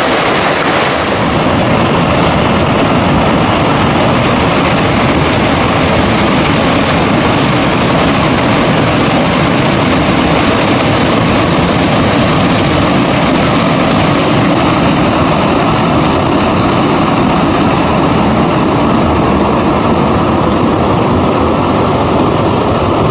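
Small waterfall rushing, a loud steady roar of falling water close to the microphone.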